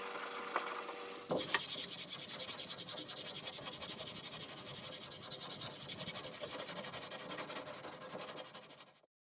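Rapid back-and-forth hand sanding, about six strokes a second, starting about a second in and cutting off abruptly near the end. It is preceded by a steadier hum with a faint steady tone.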